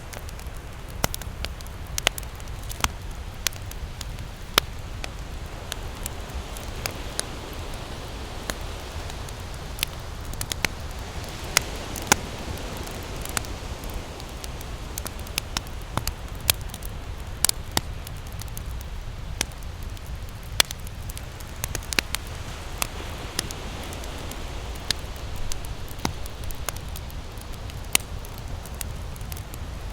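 Wood campfire crackling, with sharp irregular pops several times a second. Under it runs the steady low wash of ocean surf, swelling gently now and then.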